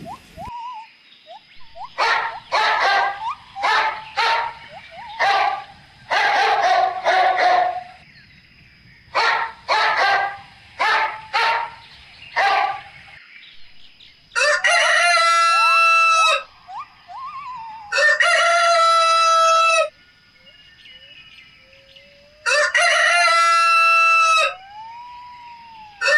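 Chickens clucking in short, quick bursts, then a rooster crowing three times, each crow about two seconds long.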